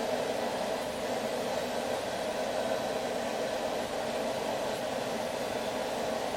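Forge running with a steady rush of air, heating a railroad spike.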